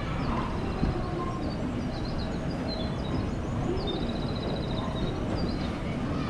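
Birds chirping in short, repeated calls over the steady low rumble of a railway station platform.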